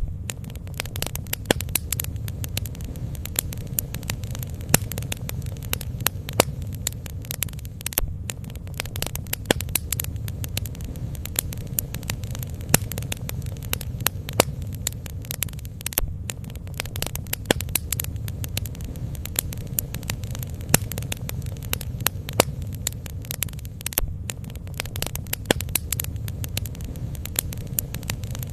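Bonfire burning: wood crackling and popping in irregular sharp snaps over a steady low rumble.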